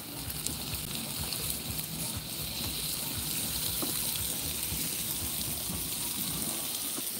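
Sijan (moringa drumstick pods) frying with garlic and masala in a skillet over a charcoal fire, giving a steady sizzling hiss.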